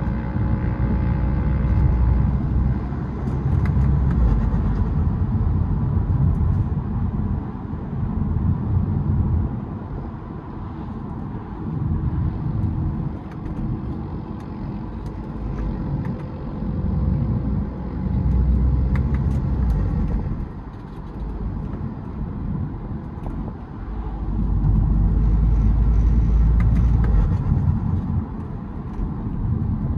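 BMW E92 320d's four-cylinder diesel engine, breathing through a K&N cold air intake, running as the car is driven: a continuous low rumble that grows louder and eases off several times, loudest for a few seconds near the end.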